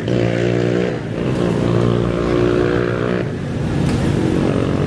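Off-road race engine running near the start line, a steady pitched note that drops about a second in and shifts again a little past three seconds, as at idle and throttle blips before a start.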